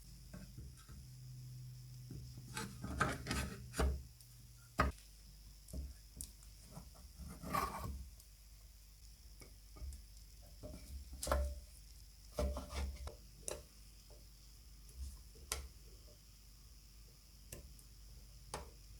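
Hand work on small parts: irregular light clicks, knocks and short scraping or rubbing sounds, with a louder knock about five seconds in.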